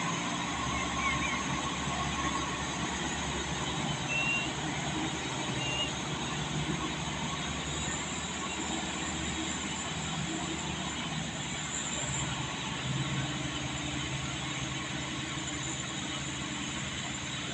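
Diesel truck engine running steadily at a low, even pitch.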